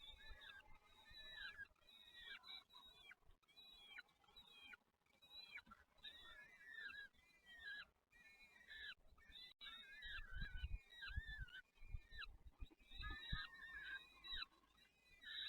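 Small birds chirping fast and continuously in short, arched high chirps, faint overall. A few low thuds come about two-thirds of the way through.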